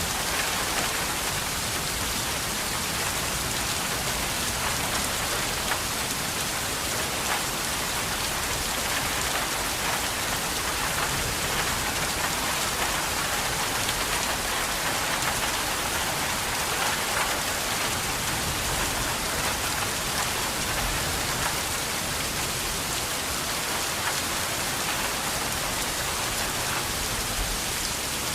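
Steady rain falling, an even hiss of drops on a surface with fine patters of individual drops, unchanging in strength.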